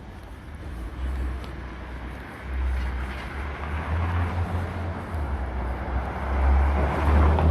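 City street traffic: vehicles passing over a steady low rumble, the noise swelling about four seconds in and again near the end.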